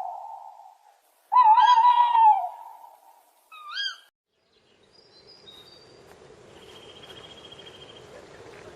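Animal calls: a loud drawn-out call that bends in pitch, then a short higher call rising at its end. A faint steady hiss follows.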